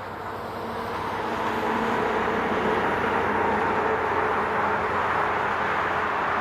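Highway traffic: a steady wash of tyre and engine noise that swells over the first two seconds as a vehicle draws close, then holds at a constant level.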